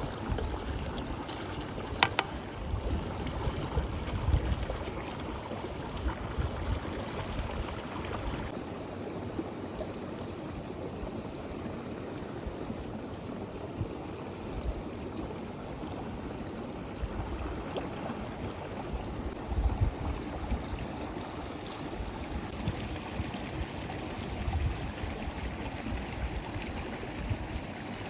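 River water flowing steadily, with a single sharp click about two seconds in and occasional low thuds.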